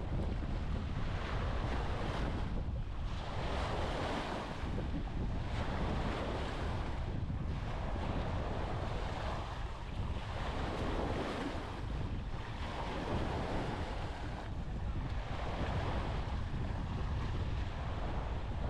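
Small waves breaking and washing up a sand beach, one swell of hiss every two to three seconds, with wind buffeting the microphone as a steady low rumble.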